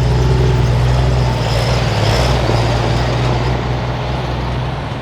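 Diesel pickup truck engine running loud and steady at a held pitch, fading slightly near the end.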